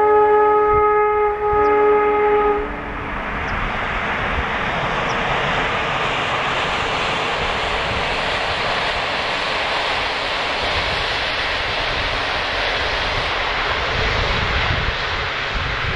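Passenger train's horn sounding a chord of several tones in two blasts, with a short break about a second and a half in, stopping under three seconds in. Then the steady rushing rumble of the train running along the line, loudest near the end as the coaches pass.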